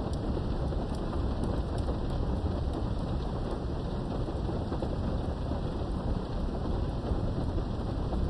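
Steady heavy rain heard from behind a window, with a low thunder rumble underneath and a few sharp drop ticks.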